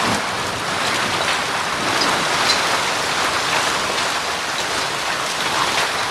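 Hailstorm with heavy rain falling on surfaces: a dense, steady hiss with scattered sharp hits of hailstones.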